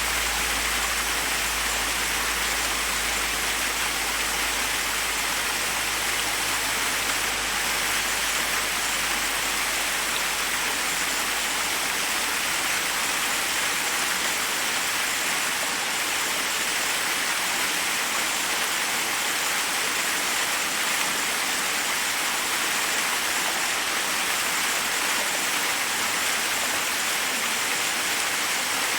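Forest waterfall: a steady, unbroken rush of water falling over rocks. A low rumble underneath fades away about halfway through.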